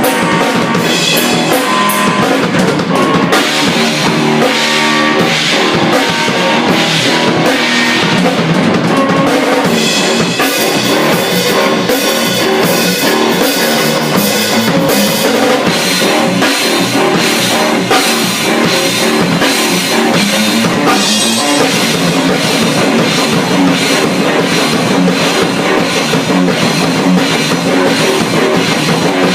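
Live rock jam on drum kit and guitar: steady beats with bass drum and crashing cymbals under sustained guitar chords, playing continuously.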